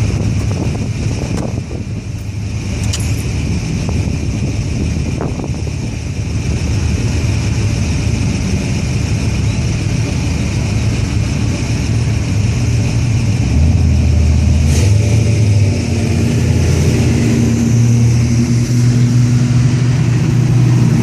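Car engines running close by in slow traffic, with a low rumble whose pitch shifts and grows louder in the second half as an engine revs.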